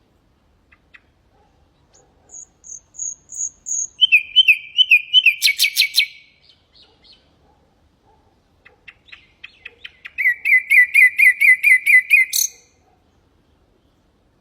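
Nightingale singing two phrases of rapid repeated notes. The first opens with a few high whistled notes and ends in a burst of loud sharp notes; the second starts with dry ticking and ends on a sharp note near the end.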